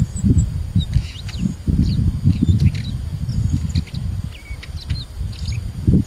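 Small birds chirping in short, high calls scattered throughout, over a louder gusty low rumble of wind buffeting the microphone.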